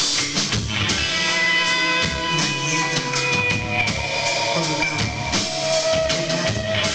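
Live rock band playing an instrumental passage: a drum kit keeps a steady beat under bass, and sustained guitar notes come in about a second in, with one note held strongly near the end.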